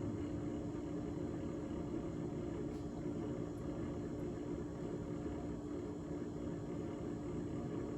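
GE GTH18XCTZRBB top-freezer refrigerator running: a steady, unchanging hum from the compressor and fans, with a strong low tone.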